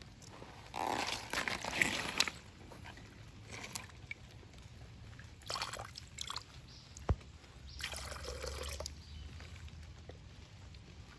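Water sloshing and pouring off a gold pan as it is swirled and dipped in creek water, washing the lighter sand away to work the concentrate down to the heavies. The sloshing comes in three bursts, the first and longest about a second in, with a single sharp tap between the second and third.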